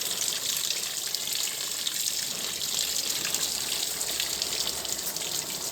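Running water, a steady splashing hiss.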